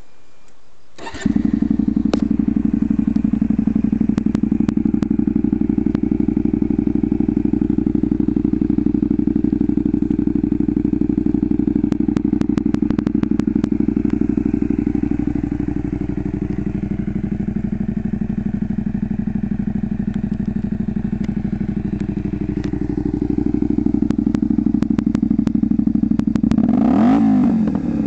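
Honda Varadero V-twin motorcycle engine breathing through an aftermarket Dominator Moto-GP exhaust. It starts suddenly about a second in, idles steadily, and is revved in a few blips near the end.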